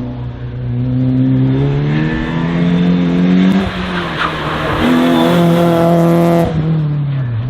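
Race car engine accelerating hard, its pitch climbing and dropping back at each gear change. A rush of tyre noise rides over it in the middle as the car slides through a slalom turn.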